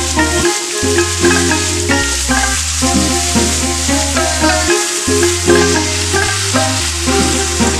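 Chicken curry sizzling in a pan, a steady frying hiss, under instrumental background music with a plucked melody and a bass line.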